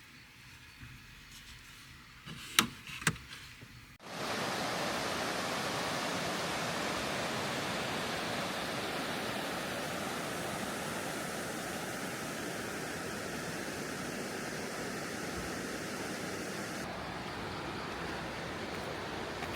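Two sharp clicks over a quiet background, then, about four seconds in, a sudden start of steady rushing water noise that continues unchanged.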